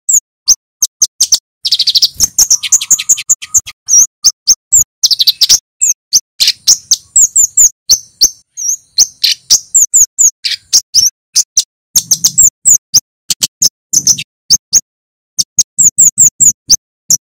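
Male kemade flowerpecker calling nonstop: a rapid run of sharp, high-pitched 'cit' chip notes. Two quick trills break in, near two seconds and again near five seconds.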